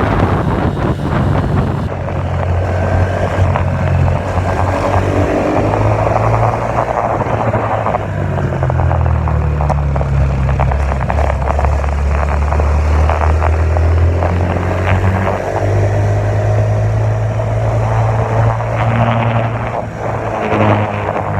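Dirt bike engine running under way, its revs rising and falling repeatedly.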